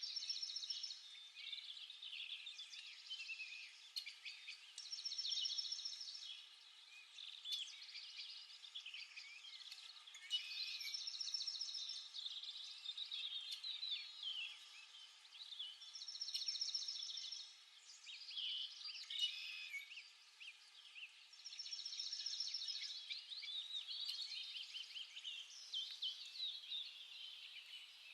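Several small birds chirping and singing at once, busy and overlapping, with a trilled phrase that comes back about every five or six seconds.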